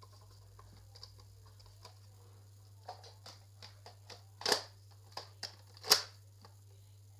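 Plastic clicks from a Nerf blaster being handled, building to two loud sharp clacks about a second and a half apart near the end.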